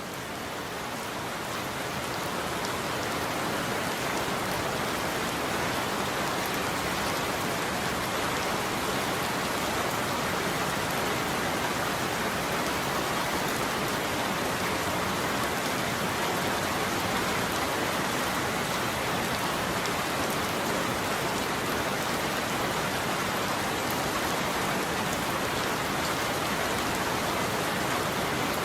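Steady heavy rain, fading in over the first few seconds and then holding at an even level.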